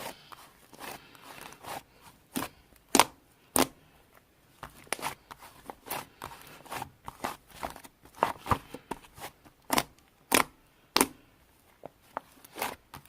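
Slime being squeezed, poked and stretched by hand, giving sharp, irregular clicks and pops, a few of them louder than the rest.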